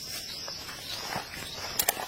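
Steady high-pitched insect buzz, fading about midway, over faint rustling, with a couple of sharp clicks near the end.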